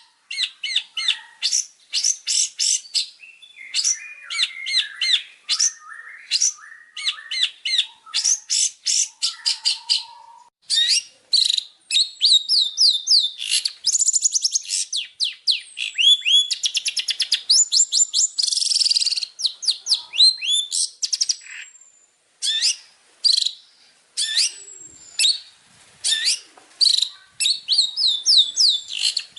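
Long-tailed shrike (cendet) singing: a loud, rapid chattering song of quick repeated high notes, most sweeping downward, with brief breaks about ten and twenty-two seconds in.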